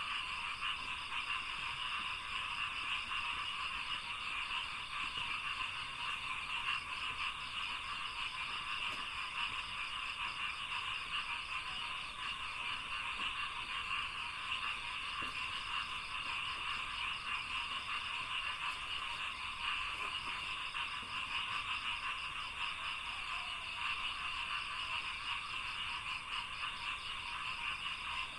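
Dense, unbroken chorus of frogs calling in a rice paddy, many voices overlapping into a continuous rapid pulsing, with a thin steady high tone above it.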